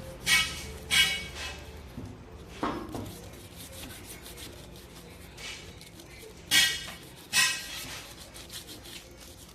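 Sharp metallic clanks with a brief ring, in two pairs: two near the start and two more about two-thirds of the way through, with a couple of fainter knocks between.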